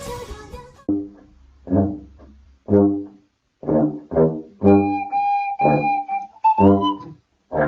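A run of about ten short, low, horn-like notes, with a higher held tone joining in about five seconds in.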